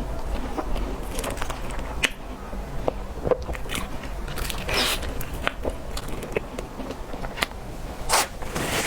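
Close-miked eating sounds of cake being bitten and chewed, with scattered small clicks and crackles and a couple of longer wet smacks.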